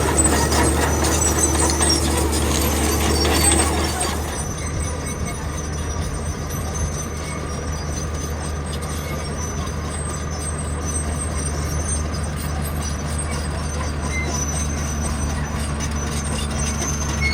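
Heavy diesel construction machinery running with a steady low drone; louder and busier for about the first four seconds, then settling to a quieter, even hum.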